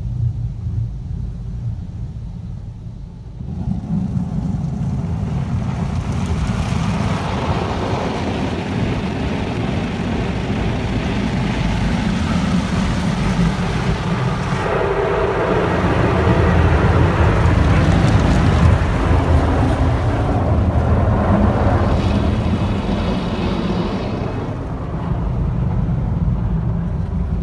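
Automatic car wash spraying water over the car, heard from inside the cabin: a steady rush of spray on the body that starts a few seconds in and swells to its loudest near the middle, over a low rumble.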